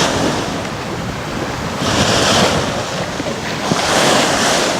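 Seawater rushing and hissing past a sailing yacht's hull as it sails with no engine, with wind on the microphone. The rush swells about every two seconds as waves pass.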